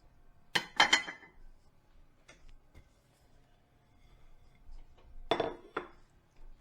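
Dishes and glassware clinking against each other during hand dishwashing: a quick cluster of ringing clinks about half a second in, faint taps in between, and a second cluster about five seconds in.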